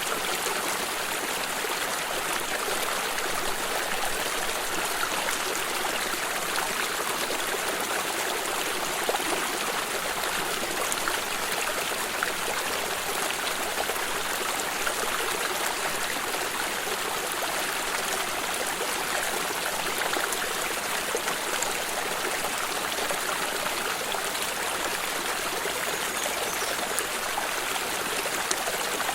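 A small stream running over stones, a steady trickling and burbling rush of water.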